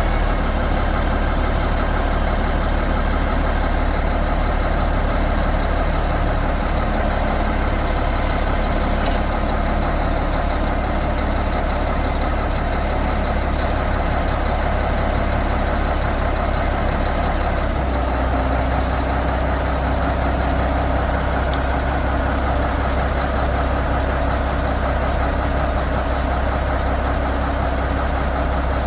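Diesel engine of a 2000 Mack RD688S tandem-axle truck idling steadily, with a slight change in its low hum about two-thirds of the way through.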